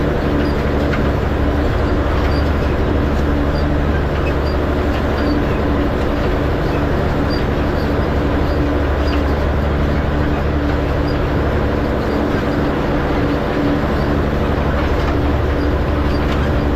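Tractor engine running at a steady speed under light load, with faint, scattered light ticks over it.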